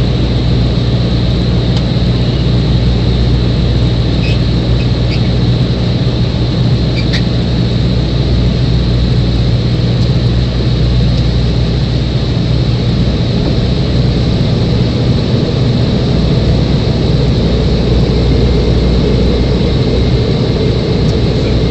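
Steady drone of airliner engines and airflow heard from inside the passenger cabin during the approach to landing, with a low hum and a faint high whine held constant.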